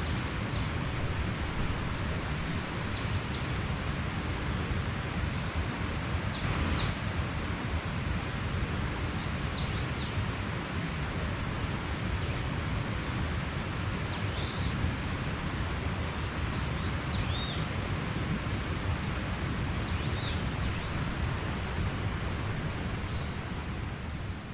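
Mountain stream rushing steadily, with a small bird giving short arched chirps every two or three seconds.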